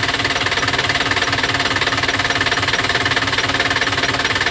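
Diesel engine of an Eicher Pro 1110 truck idling with a steady, rapid, even pulse.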